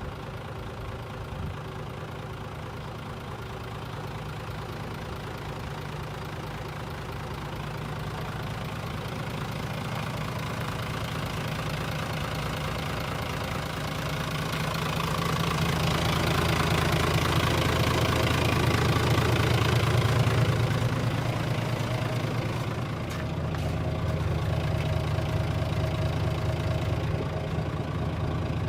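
Mitsubishi Fuso Fighter truck's 6M61 inline-six diesel engine idling steadily. It grows louder from about halfway through, dips briefly, then carries on evenly.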